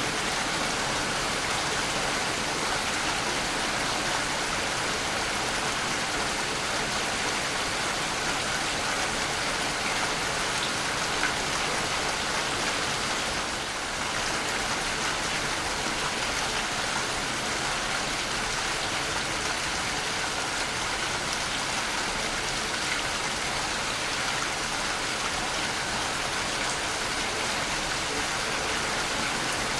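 Waterfall: falling water splashing in a steady, even rush of white noise.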